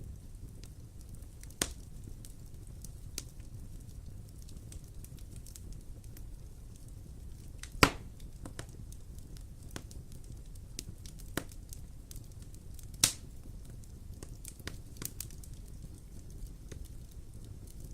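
Wood fire crackling in a fireplace, with scattered small clicks and a few sharp pops, the loudest about 8 and 13 seconds in, over a steady low rumble.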